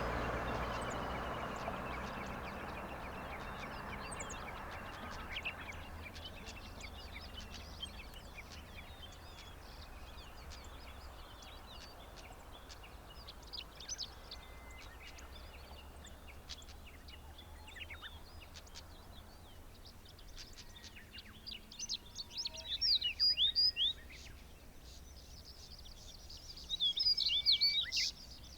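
Wild songbirds singing, with many short high chirps throughout. One bird sings a louder, rapid phrase of quick rising and falling notes twice, near the end.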